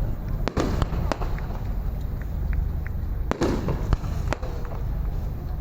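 Aerial fireworks bursting: a quick run of sharp bangs about half a second to a second in, and another run between about three and a half and four and a half seconds, over a steady low rumble.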